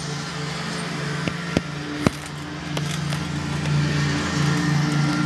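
Playing card taped to a bicycle so it flaps against the spokes of the turning wheel, making a fast buzzing rattle like a small motorbike engine. A few sharp clicks in the first two seconds, and the buzz grows louder about three seconds in.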